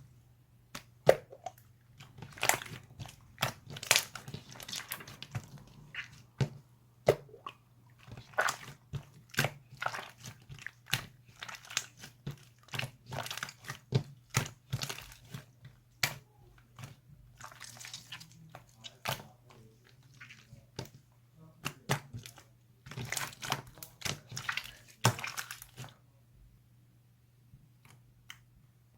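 Slime being squeezed, pressed and stretched by hand, giving many short, irregular crunching clicks and pops. The sound pauses for a couple of seconds near the end.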